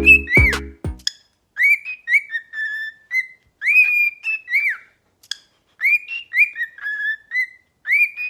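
A pet bird whistling a phrase of short, clear notes, many of them rising and falling arcs at about the same pitch, repeated in a tune-like pattern. A song with a beat cuts off about a second in.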